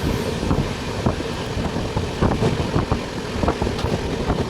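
Passenger train running, heard from inside the coach: a steady rumble with frequent irregular clicks and knocks.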